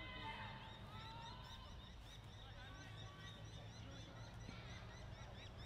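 Birds chirping over and over in quick short notes, over a steady low rumble.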